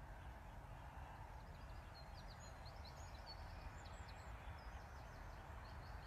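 Faint birdsong: quick runs of short, high chirps from about a second and a half in, over a steady low background rumble.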